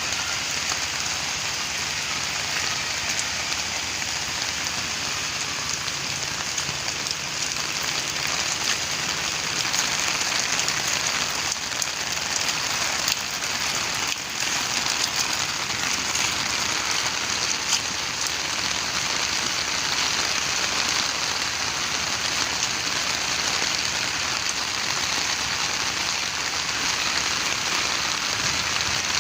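Steady heavy rain falling: a dense, even hiss of drops, with a few sharper drop hits around the middle.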